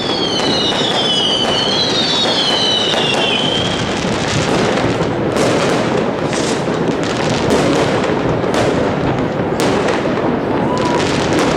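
Fireworks going off in a dense continuous barrage of bangs and crackling, with several high whistles falling in pitch over the first few seconds.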